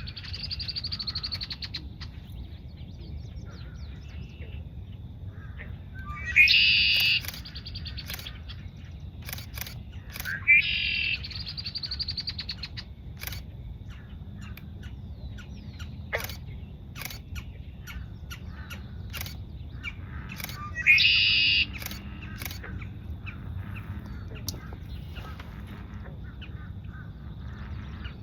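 Male red-winged blackbird singing its buzzy, trilled conk-la-ree song four times, several seconds apart. Scattered sharp clicks fall between the songs.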